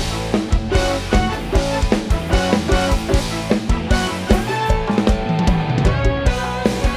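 Live band playing an instrumental passage: a drum kit keeps a steady beat of kick and snare under bass and sustained melodic lines.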